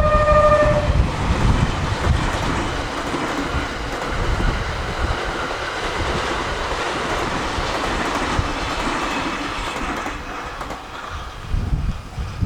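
The TRAIN SUITE Shiki-shima passing at speed, its wheels clattering over the rail joints in a steady rush of noise. The last notes of its musical horn die away about a second in. Near the end there are low rumbles of wind buffeting.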